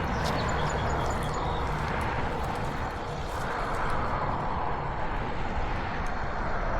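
Steady engine drone of machinery running on a tree job site, with no clear changes in pitch or level.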